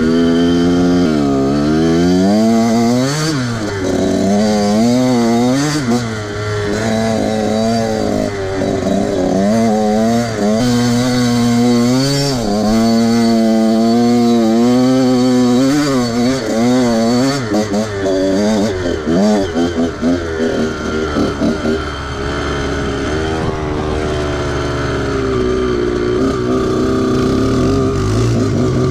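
Small off-road vehicle engine being ridden hard, its revs climbing and dropping over and over, with quick rises and falls in pitch.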